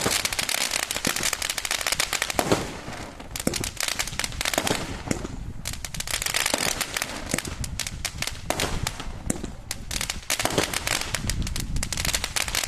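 Fireworks crackling: a dense, continuous stream of rapid pops, with a few louder bangs standing out among them.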